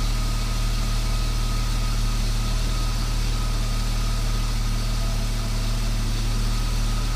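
BMW S52 3.2-litre inline-six engine idling steadily with its freshly changed oil, a faint steady high whine riding over the low hum.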